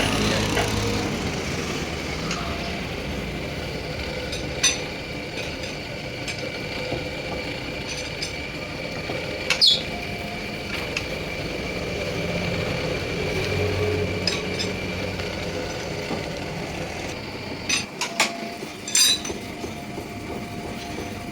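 Workshop machinery running steadily while a truck axle is turned, with a faint high steady tone and a few sharp metallic clinks and knocks, several of them close together near the end.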